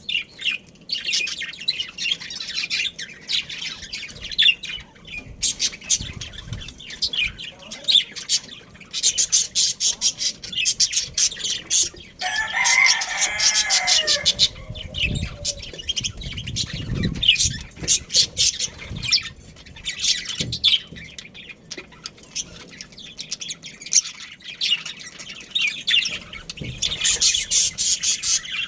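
A flock of budgerigars chattering with rapid, high chirps and warbles. About twelve seconds in, a lower, longer call with several layered pitches lasts about two seconds.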